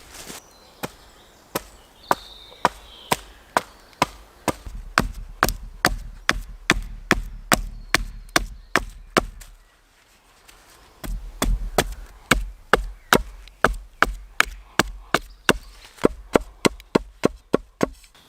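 Wood being chopped with a blade for firewood: a run of sharp knocks, slow at first and then about two a second. The knocks pause briefly near the middle, then start again.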